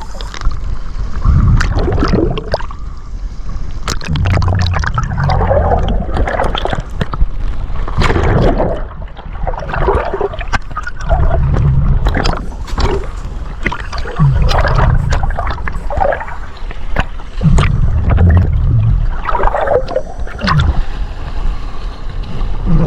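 Choppy seawater sloshing and gurgling loudly around a GoPro at the surface, in irregular surges with many sharp splashes, as a diver kicks hard through rough water.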